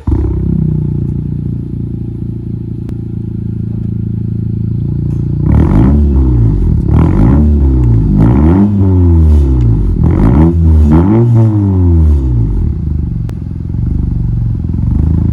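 Turbocharged 1.5-litre four-cylinder of a 2018 Honda Civic hatchback, run through a catted downpipe with the muffler and resonator deleted. It idles, is revved about five times in quick succession, then drops back to idle.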